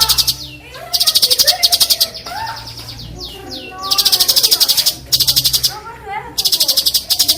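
Cucak cungkok giving harsh, rapid rattling 'besetan' calls in bursts of about a second, four of them, with short gliding whistled notes in between.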